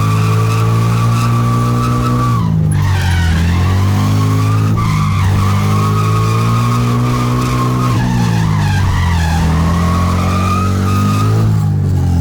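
Scion FR-S drift car running hard with its tyres skidding and squealing. The engine note is held high, dips briefly and climbs back about four times.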